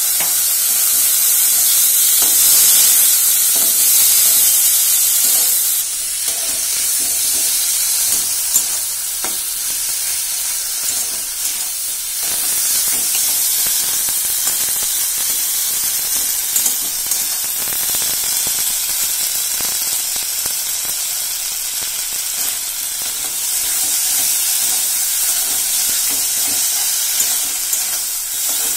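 Chickpea, potato and onion masala sizzling in an aluminium kadai while a metal spatula stirs it, with scattered light clicks of the spatula against the pan. The sizzle is loudest for the first six seconds or so, then eases a little.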